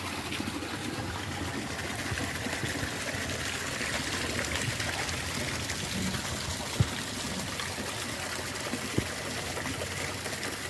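Water running and trickling steadily in a roadside storm-water drain, with two brief knocks about seven and nine seconds in.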